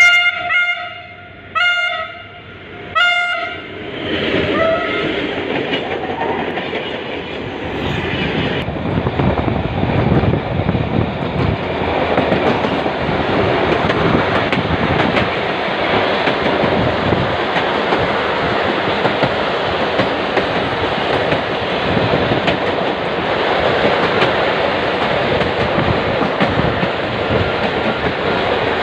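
A diesel locomotive's horn sounds three short blasts. Then the trains run past with a steady rush of wheels clattering over the rail joints, which grows a little louder partway through.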